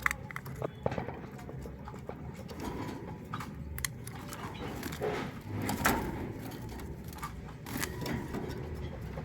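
Pet puter pelung turtle dove with faint low cooing, among scattered sharp taps and knocks, about half a dozen over several seconds.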